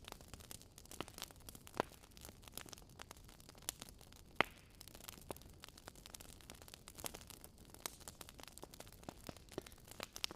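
Fireplace fire crackling: irregular sharp crackles and pops over a faint hiss, with one louder pop about four seconds in.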